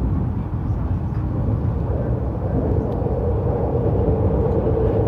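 Narita Express E259-series electric train running, heard on board: a steady low rumble of wheels on track, with a steady mid-pitched hum coming in about a second and a half in and growing louder.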